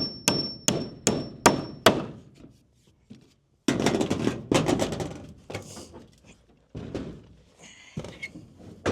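Hammer driving a nail into wooden framing: a run of about six sharp strikes, roughly two and a half a second, with a high ring over them. About four seconds in comes a longer dense clatter of wood and metal, then scattered knocks.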